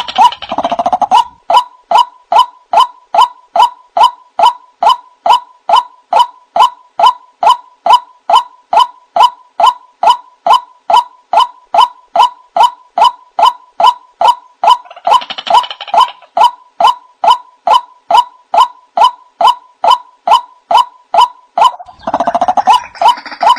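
White-breasted waterhen calling: a long, monotonous run of harsh, evenly spaced notes, about two and a half a second. Other overlapping calls join briefly about fifteen seconds in and again near the end.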